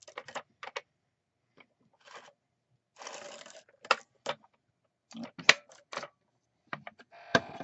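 Paper-crafting handling sounds: paper and cardstock sliding and rustling, with a few short rasping stretches and scattered sharp clicks and taps of tools set down on the desk.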